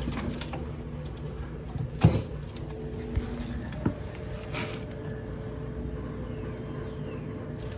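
Old GE-built Kenmore three-door refrigerator just plugged in: a steady low electrical hum with a few sharp clicks and knocks, the loudest about two seconds in.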